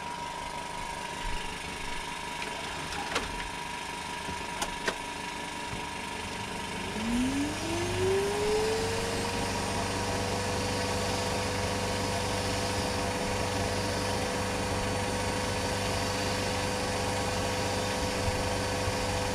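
Vacuum cleaner switched on for a suction test about seven seconds in: its motor whine rises in pitch as it spins up, then runs steadily, fitted with an improvised bag in place of a proper dust bag. Before it starts there is a steady machine hum and a few sharp clicks.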